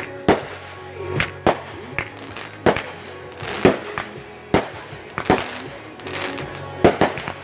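Fireworks going off: about ten sharp bangs at irregular intervals, some in quick pairs, with music playing underneath.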